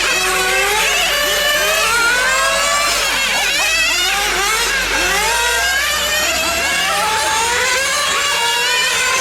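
Several nitro-engine RC cars running laps together, their small engines revving up and down in many overlapping pitches as they accelerate and brake.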